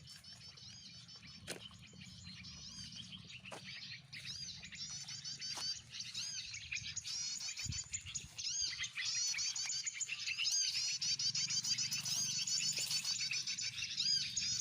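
Small birds' chirping song: rapid, high, arched notes repeated over and over, growing louder through the second half, with a few sharp clicks in the first seconds.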